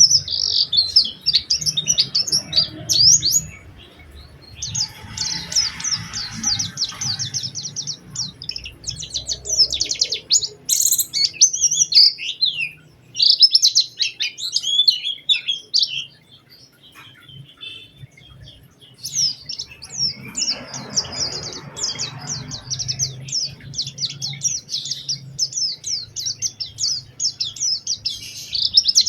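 White-eye (pleci) singing: fast, high twittering phrases broken by short pauses, with a longer pause a little past the middle before the song picks up again.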